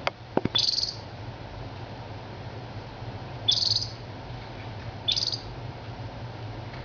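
Crested canary giving three short, high chirping calls, spaced a couple of seconds apart. A few sharp clicks come at the very start, over a steady low hum.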